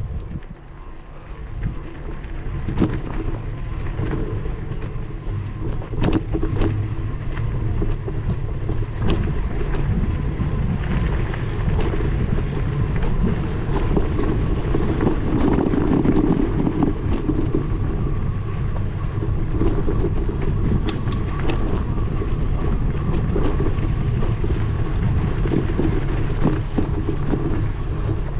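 Steady low rumble with wind on the microphone and scattered sharp clicks and rattles, swelling louder about halfway through.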